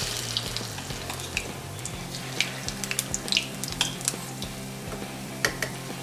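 Semolina vada batter spooned into hot oil, sizzling steadily with scattered sharp crackles and pops as it fries.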